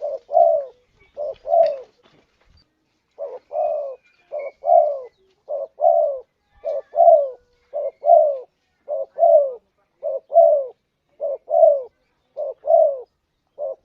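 Spotted dove (tekukur) cooing, a lure call: short two-note coos, each a brief note followed by a longer falling one, repeated about once a second with one short pause about two seconds in.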